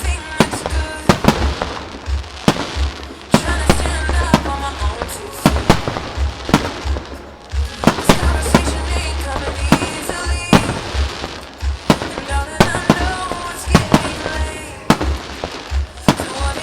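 Aerial fireworks bursting in rapid succession, many sharp bangs a second with deep booms among them, over music from the show's loudspeakers.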